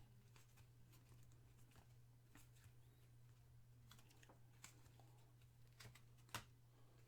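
Near silence: faint, scattered clicks and rustles of trading cards being handled, over a steady low hum. The most distinct click comes about six and a half seconds in.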